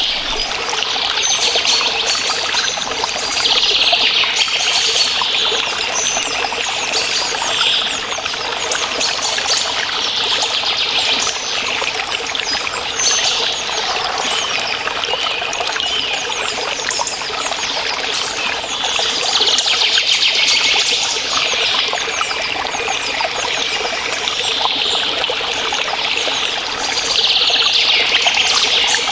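Small stream trickling and running steadily, its higher hiss swelling and easing every few seconds.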